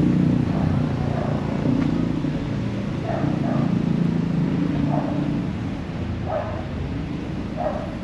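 A dog barking, short single barks every second or two, over the low rumble of a motor vehicle engine that fades away.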